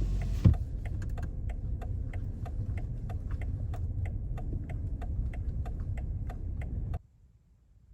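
Car turn-signal indicator ticking at an even rhythm inside the cabin of a BMW 540i, over the low hum of its B58 straight-six running. A single thump about half a second in; the sound cuts off abruptly about seven seconds in.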